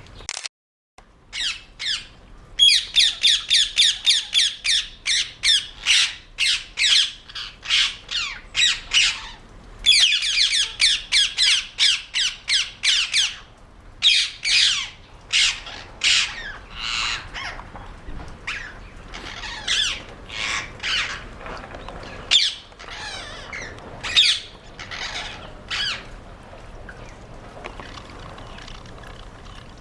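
Rose-ringed parakeets giving harsh, screeching squawks in rapid runs of two or three calls a second, thinning out and stopping near the end.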